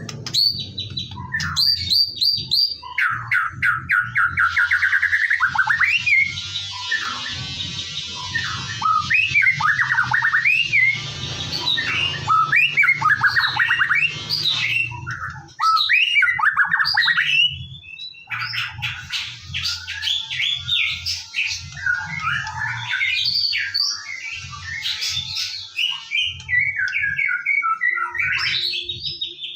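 White-rumped shama singing continuously: a fast, varied song of loud whistles, rapid trills, and harsh buzzy rattles, over a low pulsing hum.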